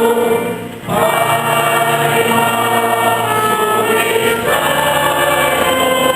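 Church choir singing a Mass hymn over sustained low accompanying notes. The singing drops away for a breath under a second in, then carries on.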